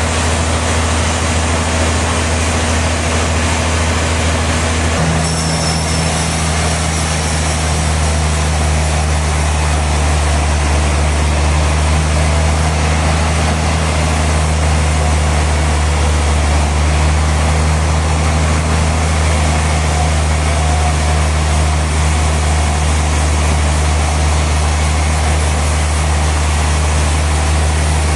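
Sawmill machinery running steadily with a loud low hum; its note shifts slightly about five seconds in.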